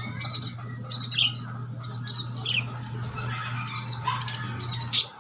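Lovebirds giving short, sharp chirps and squawks every second or so, over a steady low hum that stops just before the end.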